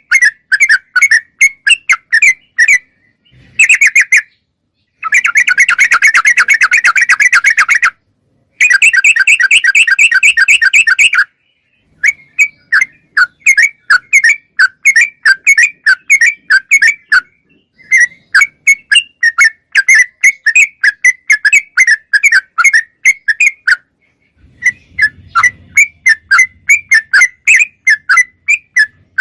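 Yellow-vented bulbul (trucuk) singing: quick runs of short, clear whistled chirps, repeated in phrases with brief pauses. Two faster, denser chattering runs come about five and eight seconds in.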